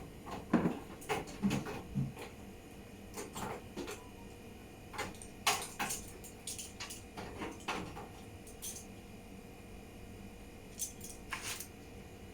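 Irregular clicks, taps and small knocks of tools and metal and plastic parts being handled during an induction cooker repair, over a faint steady hum.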